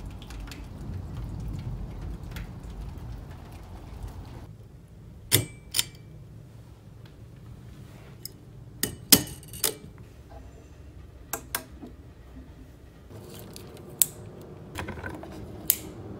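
Low rumble of thunder and rain for about the first four seconds, cut off abruptly. Then a series of sharp clicks and knocks, about ten spread irregularly, like small hard objects being handled.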